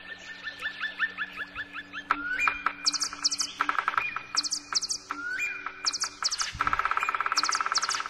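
Songbird singing: a run of quick, evenly spaced chirps, then varied phrases of rising whistles, fast trills and clusters of very high, thin notes.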